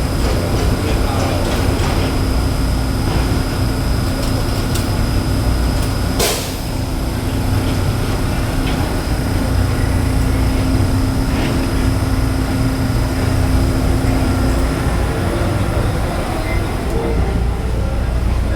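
Taiwan Railway EMU3000 electric multiple-unit train moving past the platform: a steady rumble of running gear under a constant hum. There is one sharp click about six seconds in, and the hum fades near the end.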